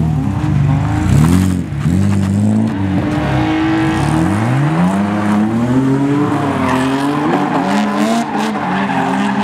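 Drift cars' engines revving hard and dropping back again and again as the cars slide, with more than one engine heard at once in the second half. Tyre noise from sliding on the loose surface runs underneath.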